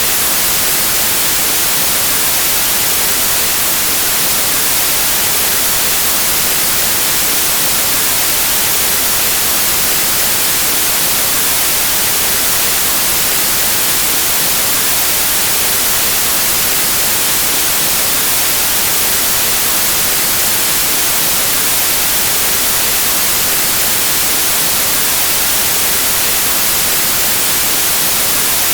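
Steady white noise: an even, unchanging hiss of static across the whole range of pitch, brightest in the highs.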